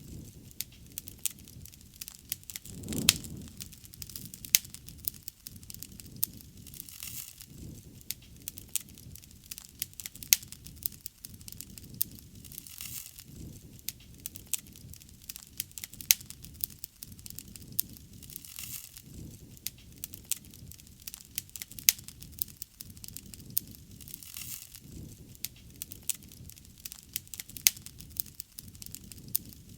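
Wood bonfire crackling, with sharp pops scattered throughout and a low rush of flames that swells now and then, most strongly about three seconds in.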